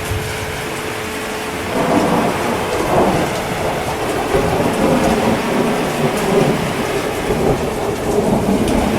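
Steady heavy rain with rolling thunder. The thunder swells in about two seconds in and rumbles on to the end.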